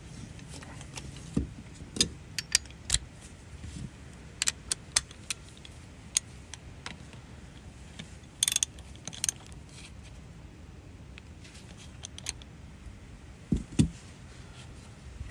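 Scattered light clicks, taps and clinks from handling a plastic syringe and bottle while drawing up gear oil, with a short rustle partway through and two dull knocks near the end, over a steady low hum.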